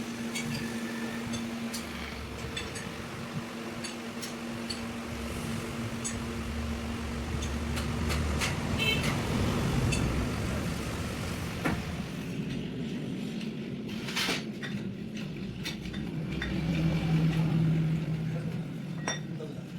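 Scattered metallic clinks and knocks of steel gearbox parts and tools being handled, over a steady hum for the first half.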